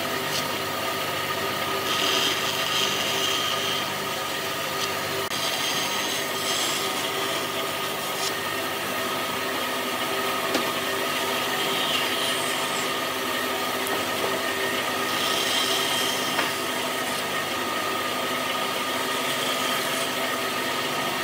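Electric power tool running steadily against wood, its motor hum constant under a rough rubbing, rasping noise that swells and eases several times.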